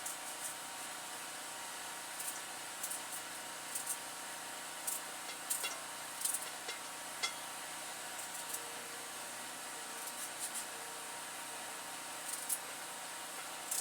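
Knife dicing carrots on a cutting board: light, irregular chops and taps over a steady background hiss.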